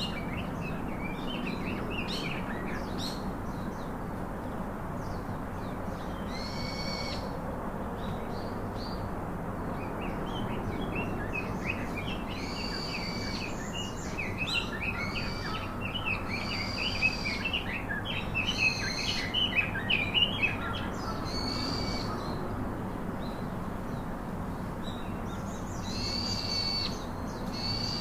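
Several wild birds calling over a steady background hiss. One call, held on a single high note for under a second, repeats every few seconds, and bursts of quick chirps crowd in through the middle.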